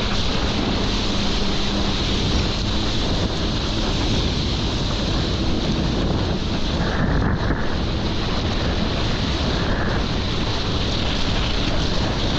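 Heavy wind buffeting the microphone over rushing water, while out on the water behind a jet ski. A faint low engine hum sits underneath for the first few seconds.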